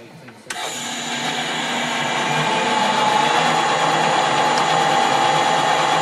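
Metal lathe starting up about half a second in, building up over a couple of seconds, then running steadily with a constant gear whine.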